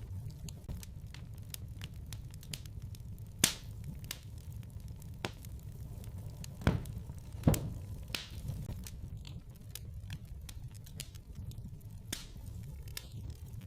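Wood fire crackling in a fireplace: a steady low rumble with scattered sharp pops and clicks. The loudest pop comes about three and a half seconds in, and two more come close together around seven seconds in.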